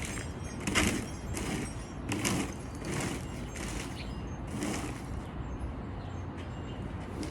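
A run of rhythmic scraping or crunching strokes, roughly one every second, that stop about five seconds in, over a steady low rumble.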